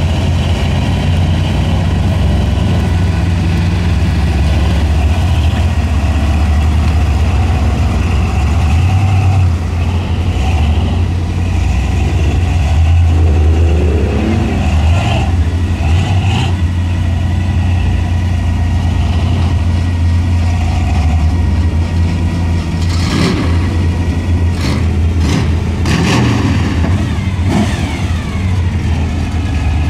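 4x4 mud trucks' engines running loudly, idling and revving up and down. Several short sharp knocks come near the end.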